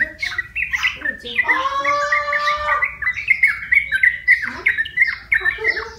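Yellow-vented bulbul (trucukan) calling: a quick, chattering run of short chirping notes, with one longer drawn-out note lasting over a second about a second and a half in.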